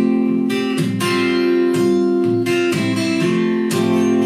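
Acoustic guitar strumming chords in a steady rhythm, an instrumental fill between sung lines.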